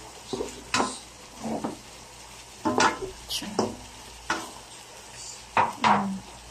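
Chicken pieces browning in hot oil in a nonstick wok, sizzling steadily, while a plastic slotted spatula scrapes and turns them in about nine quick strokes.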